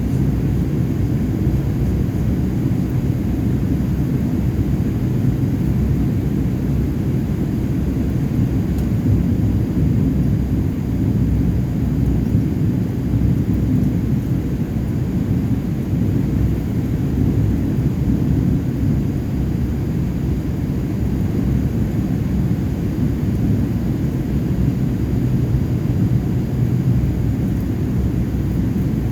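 Steady low rumble of a Boeing 787-8's engines and airflow heard from inside the passenger cabin, even and unchanging throughout.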